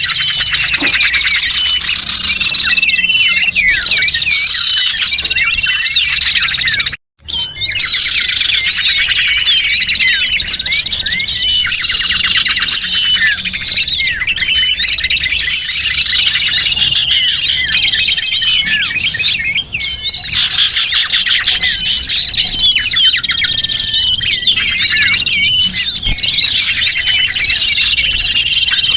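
A dense chorus of many small birds chirping, twittering and trilling, played as a bird-trapping lure call ('suara pikat'). The twittering is continuous and busy, with a short clean break about seven seconds in.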